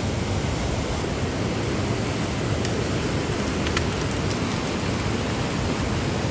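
Steady rushing noise of fast-moving floodwater, with a few faint clicks.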